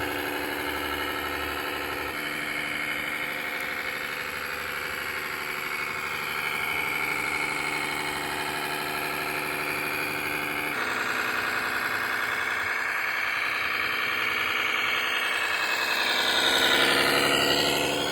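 Simulated diesel engine sound from RC model tractor and truck sound modules, idling steadily with abrupt changes of engine note, then revving up, louder, near the end.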